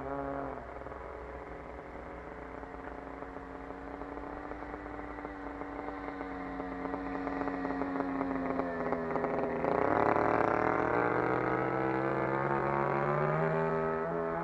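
RCGF 20cc single-cylinder two-stroke petrol engine on a Seagull Harrier 3D model plane, running at a steady speed and growing louder over the first ten seconds. About ten seconds in, its tone shifts and fills out, and it stays loud from there.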